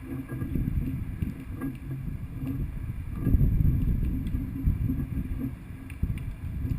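Wind buffeting the microphone as a low, uneven rumble, with a few faint clicks.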